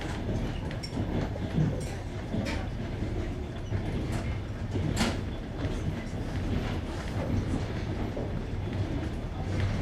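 Passenger train wheels running over jointed rails, heard from inside the carriage: a steady low rumble with sharp clacks at the rail joints every second or two.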